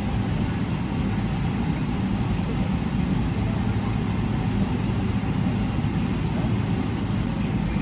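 Steady engine and airflow noise inside the economy cabin of a Boeing 777-300ER, heard as a constant low rumble and hum with a hiss on top, its GE90 engines running.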